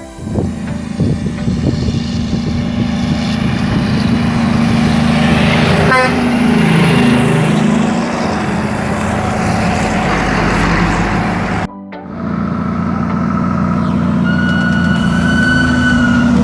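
Heavy truck diesel engine running steadily. About halfway through, the engine note drops and climbs back up, and it cuts off abruptly and resumes a few seconds later.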